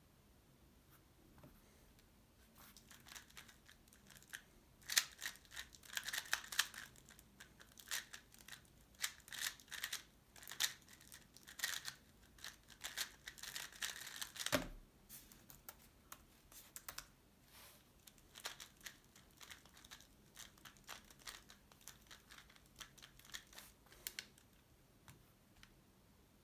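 Tornado V3 Pioneer 3x3 speedcube being turned fast: a dense run of light plastic clicks and clacks from the layers snapping round, with one dull thump about halfway through.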